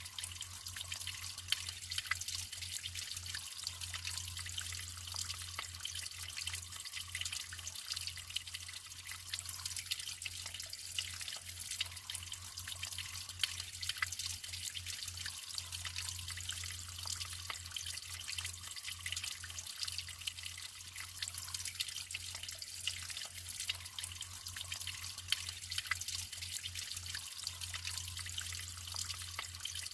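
Natural flowing water trickling and splashing steadily, with a dense patter of small drips and droplet splashes.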